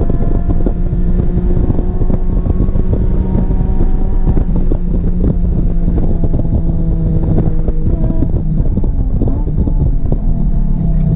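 A car's engine heard from inside the cabin, pulling under load at a steady, slowly climbing pitch, with wind buffeting and road rumble. About eight seconds in, the tone breaks up and then settles at a lower pitch.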